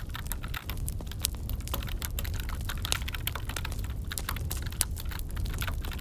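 Keyboard typing mixed with a wood fire crackling: irregular sharp clicks and pops over a steady low rumble.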